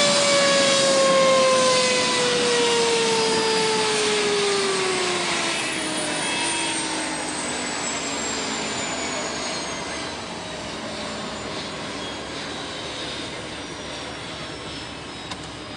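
Helicopter turbine engine whining and slowly spooling down: its pitch falls steadily and the sound fades over several seconds. A small click comes near the end.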